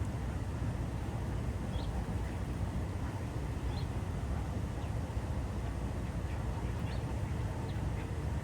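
Pond ambience: a steady low rumble, with faint, brief duck calls now and then, about ten of them.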